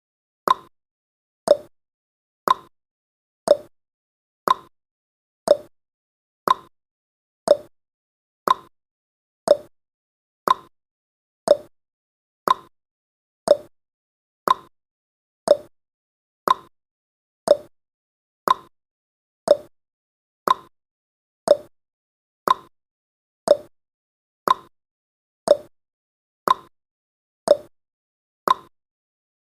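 Countdown timer's clock-tick sound effect: one short, sharp tick each second, keeping a steady beat.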